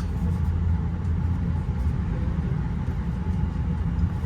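Steady low rumble of a JR Special Rapid Service (Shinkaisoku) train running at speed, heard from inside the carriage.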